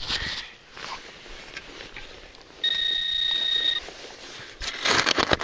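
A metal detector's steady high beep, held for about a second midway, as it sounds on a buried target. Near the end comes loud crunching and scraping, soil being dug and handled.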